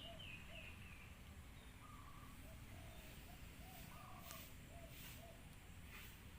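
Faint bird calls: a run of short, repeated low notes, a few higher chirps near the start, and a few soft clicks.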